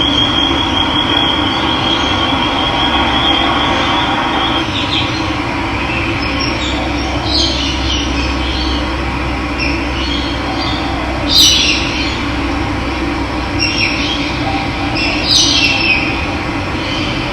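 Steady rush of running water, with wild birds calling over it: a thin high trill for the first four seconds or so, then short chirps now and then, the loudest about eleven seconds in.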